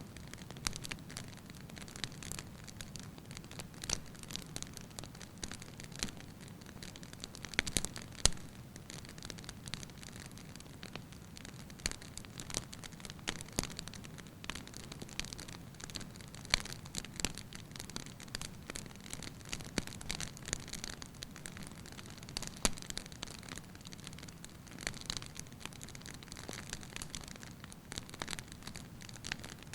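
Wood fire burning in a fireplace: a steady soft hiss with irregular sharp crackles and pops from the burning logs, a few louder pops scattered through it.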